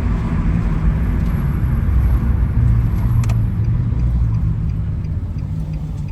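Chrysler 300's Hemi V8 pulling the car along, a steady low rumble of engine and road noise that swells a little a few seconds in, then eases off.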